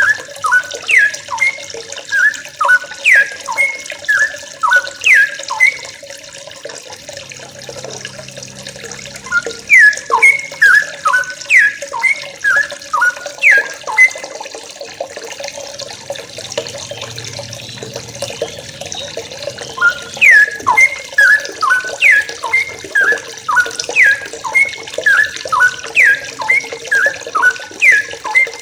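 A group of yellow-vented bulbuls (trucukan) calling: quick, overlapping runs of short, sharp down-slurred notes, pausing twice before starting up again.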